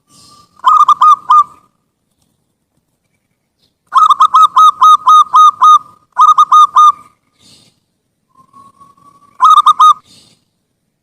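Zebra dove (perkutut) singing: phrases of quick, staccato cooing notes. A short phrase comes about a second in, a longer run of about a dozen notes in the middle, and a short phrase near the end, some led in by a faint drawn-out note.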